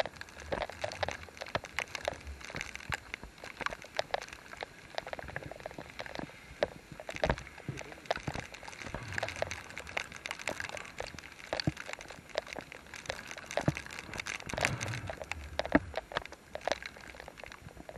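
Rain falling and splashing, a dense irregular patter of drops over a steady wash of water noise.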